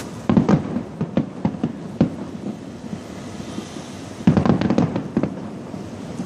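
Aerial fireworks bursting: a quick cluster of sharp bangs and crackles about half a second in, scattered single bangs, then a second dense cluster about four seconds in, all over a continuous low rumble of distant explosions.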